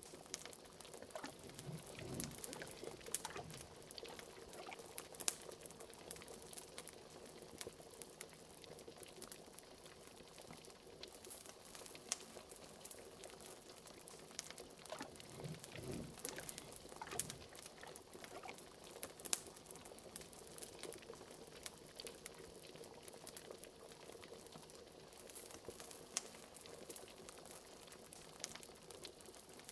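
Liquid bubbling in a cauldron, with an occasional low bloop every several seconds, over a steady scatter of crackles from a wood fire.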